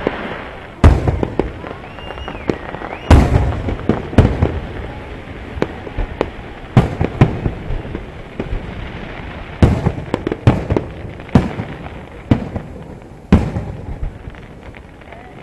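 Aerial firework shells bursting overhead: a series of loud booms at irregular intervals of one to two seconds, with smaller pops and crackles between them.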